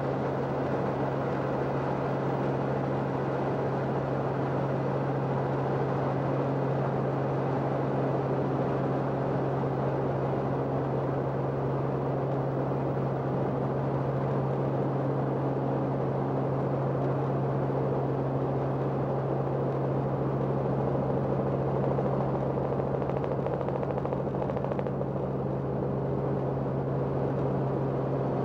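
Steady engine and rotor drone of the aircraft carrying the camera, heard from inside the cabin, with a constant low hum and no change in pitch or level.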